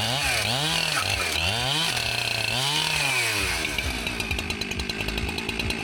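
Chainsaw engine revved up and down three or four times, then settling to a steadier, lower run with a fast ticking.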